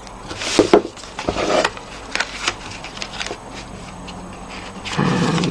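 Card panels and adhesive tape being handled on a craft table: a few short taps and crinkles in the first two seconds, quieter handling after, and a longer rustle near the end.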